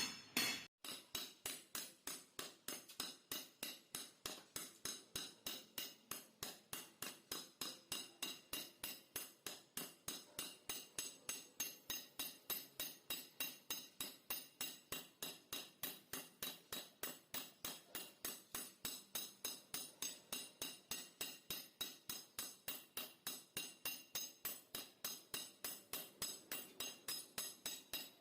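Steady, evenly spaced hammer taps on metal, about three a second, typical of a motorcycle exhaust being chiselled out.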